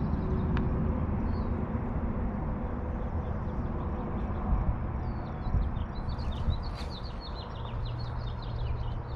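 A songbird singing a quick run of short, high chirps in the second half, with a single chirp about a second in. Under it runs a steady low rushing noise.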